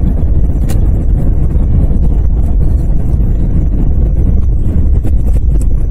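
Steady low rumble of a car driving on a snow-covered road, heard from inside the cabin through a phone's microphone: road and engine noise with wind-like buffeting on the mic, and a faint click about a second in.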